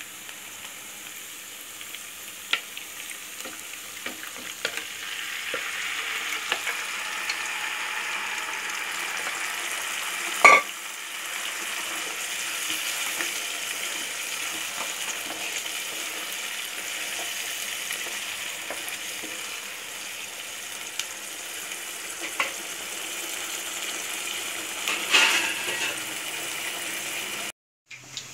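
Chopped onions and mutton pieces sizzling in a pan while a spatula stirs and scrapes, with scattered small clicks. A loud, ringing metallic clank comes about ten seconds in, and a few more knocks follow near the end.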